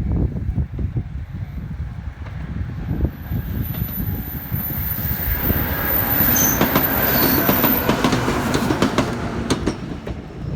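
A train running past a railway level crossing: a steady low rumble with the wheels clacking over the rail joints, the clacks coming thicker and louder in the second half, and a few brief squeals from the wheels about midway.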